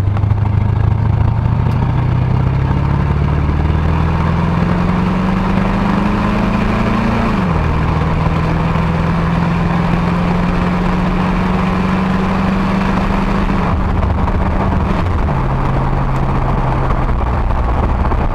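Ford 351 Windsor V8 in a 1977 Ranchero pulling the truck along on a freshly rebuilt carburetor: the engine note climbs slowly for about seven seconds, drops sharply as the FMX automatic shifts up, holds steady, then drops again after about fifteen seconds.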